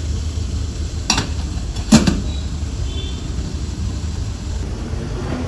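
Two sharp knocks of kitchenware about a second apart, the second louder, over a steady low rumble.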